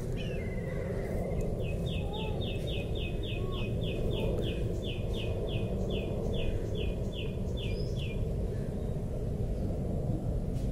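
Outdoor ambience with a steady low background noise, over which a bird calls a long series of short, evenly repeated high notes, about three a second, for some six seconds, with a brief trill near the start and a few scattered chirps.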